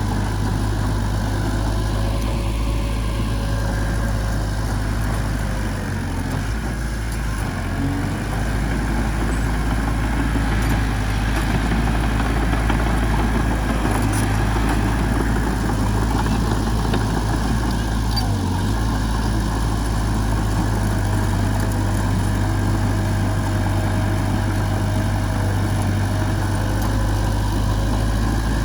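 Heavy-machinery diesel engine running steadily with a constant low drone.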